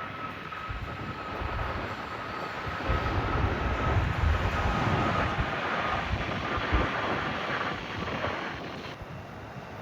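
Jet airliner engines passing, a rushing roar with a thin whine that slowly sinks in pitch, loudest in the middle and fading near the end. Wind buffets the microphone with low rumbling gusts.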